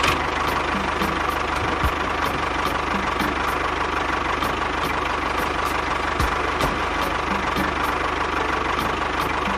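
A motor running steadily, with a faint regular ticking about three times a second.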